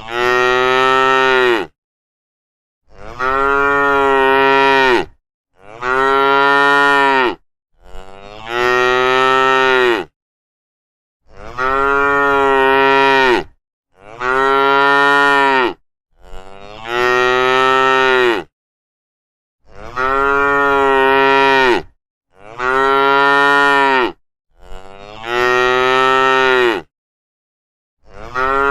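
Cows mooing: about a dozen long moos, each lasting about two seconds, rising at the start and then held. They follow one another every two to three seconds, with dead silence cutting in between each call.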